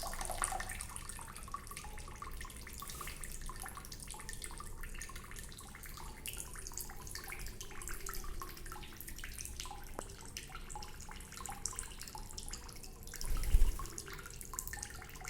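Water dripping and splashing in a sink in small irregular patters, with a brief dull thump about thirteen seconds in.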